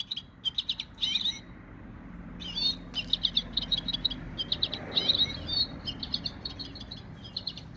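Sound box of an American goldfinch plush toy playing its recorded goldfinch song: rapid twittering chirps in bursts, with a short pause about a second and a half in.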